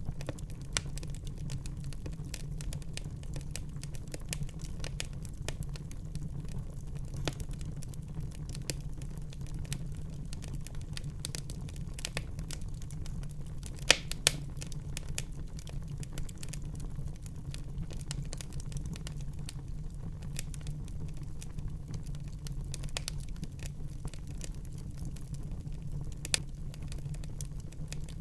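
Wood fire burning in a fireplace, crackling with frequent small pops over a steady low rumble of the flames. A few louder snaps stand out, the loudest about halfway through.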